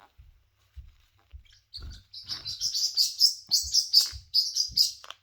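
Pet cockatoo giving a fast run of short, high chirps, about four a second, starting about two seconds in, with a few soft low thumps underneath.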